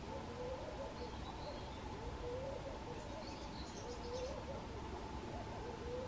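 A bird's low, wavering hooting or cooing calls, repeated every second or two, over steady outdoor background noise. There are faint high chirps from small birds about a second in and again around the middle.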